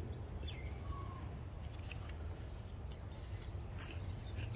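Insects trilling steadily in a thin, high band over a low, steady background rumble of outdoor ambience.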